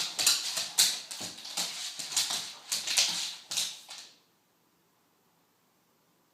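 American pit bull terrier chasing its tail: a fast, irregular run of short dog noises and scrabbling, cutting off suddenly about four seconds in, then near silence.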